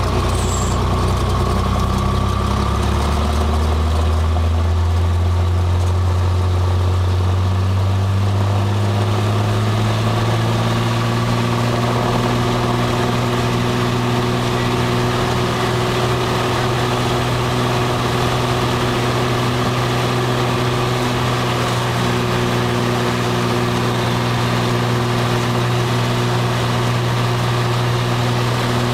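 Cessna 182's piston engine and propeller heard from the cockpit, its pitch rising over the first several seconds as power comes up, then holding a steady drone.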